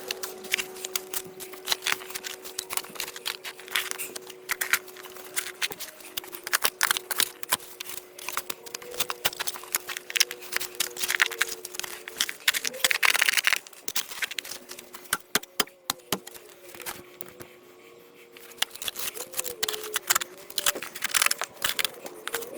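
Irregular clicks, snaps and crinkling of hands working with tools and plastic parts, over a faint steady hum.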